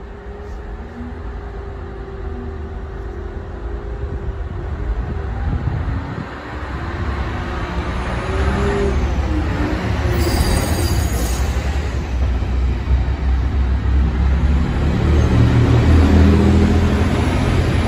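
Two coupled DSB IC3 (MF) diesel multiple units run along the platform, the rumble of engines and wheels on rails growing louder as the cars go by. A brief high wheel squeal comes about ten seconds in.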